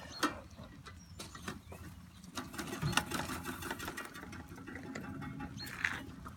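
Scattered clicks and light clatter from a beekeeper's smoker being handled, over a low steady hum.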